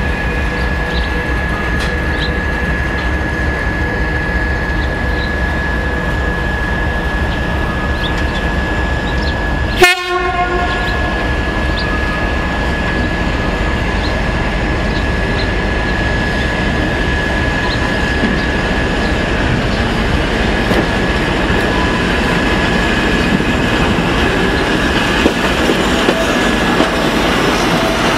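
A locomotive hauling an Allegro electric trainset approaches and runs past, growing louder toward the end. A steady whine runs throughout, and there is one short, sharp horn blast about ten seconds in.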